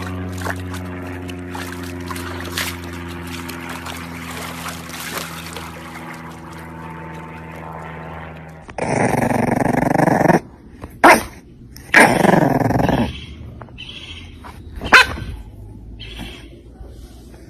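A dog barking and growling in several loud outbursts in the second half, after a steady low hum in the first half.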